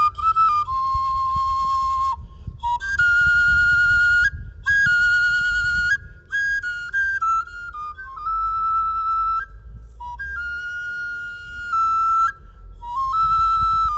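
Igbo ọjà, a carved wooden flute, playing a melody of held notes with a wavering pitch. The notes step up and down in short phrases separated by brief pauses.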